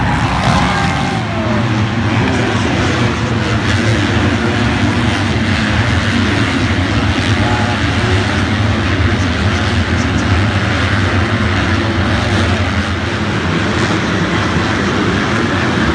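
Motocross bikes' engines running together in a steady, loud blend of engine noise, with no single bike standing out.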